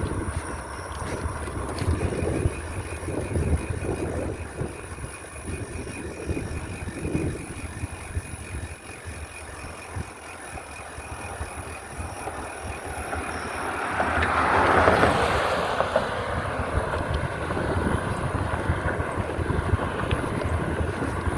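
Wind buffeting the microphone while riding a bicycle, a gusty rumble. About two-thirds of the way through, a louder rushing swell builds and fades.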